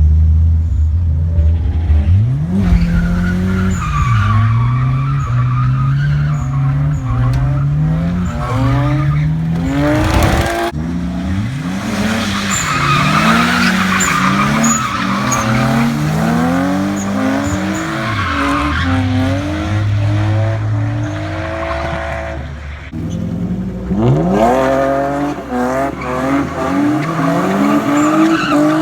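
A drift car's engine revving hard, climbing and dropping in pitch again and again, with tyres squealing and skidding as the car slides.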